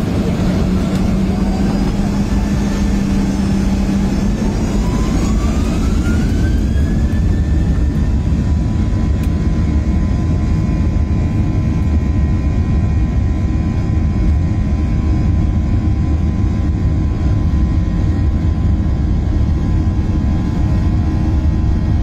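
Jet airliner engines heard from inside the cabin, spooling up with a rising whine a few seconds in, then running steadily with a constant whine over a dense low rumble, as at takeoff power.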